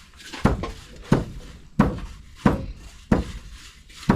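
Pestle pounding young rice for khao mao in a mortar: regular heavy thuds at about one and a half strokes a second.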